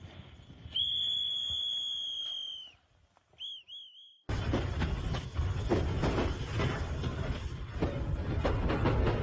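A shrill whistle held for about two seconds, falling slightly as it ends, then two short dipping whistle chirps. About four seconds in, a loud rushing noise with a deep rumble starts abruptly and carries on.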